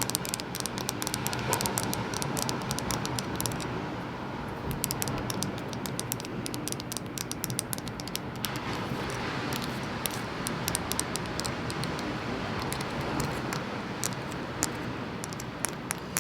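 Rapid, irregular tapping and clicking on seashells, many small hard clicks a second with brief thinner patches, over a steady rush of ocean waves.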